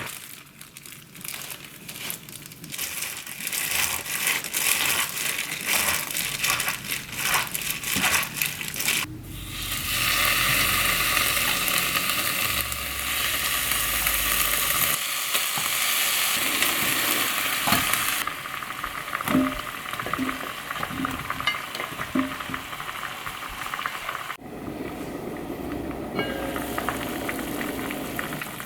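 Food frying and sizzling in a hot pan, with scattered clicks and knocks of utensils during the first third. The sizzle is loudest in the middle stretch, and the sound changes abruptly a few times.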